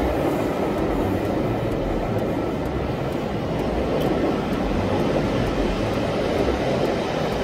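A train of Pullman-style passenger coaches rolling past on curved track: a steady noise of wheels running on the rails, with faint clicks.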